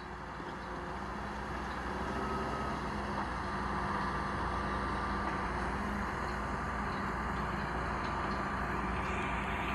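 A vehicle engine running steadily with a low hum, getting a little louder over the first few seconds.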